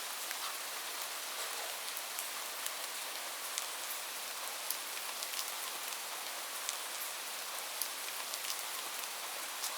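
Steady rain falling, an even hiss with many separate drops ticking close by.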